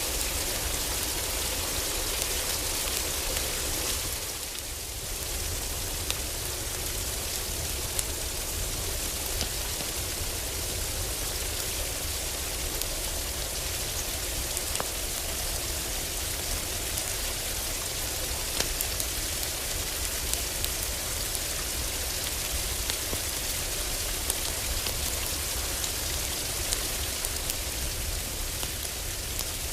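Heavy rain falling steadily on a roof, with scattered sharp crackles and pops of a wood fire in a fireplace. The rain eases briefly about four seconds in.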